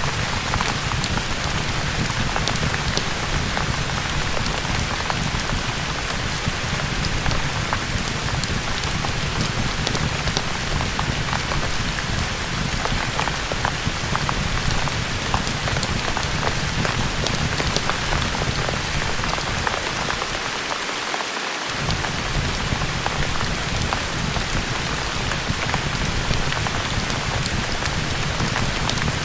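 Steady rain ambience mixed with a fireplace crackling in small scattered pops. The low rumble beneath drops out for about a second about two-thirds of the way through.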